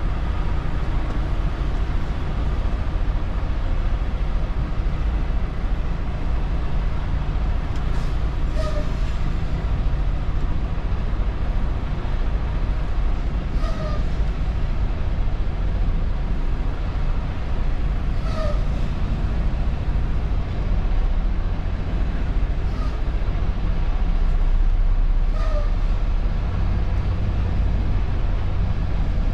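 Semi truck's diesel engine rumbling steadily, heard from inside the cab, with a few short high chirps and clicks every few seconds.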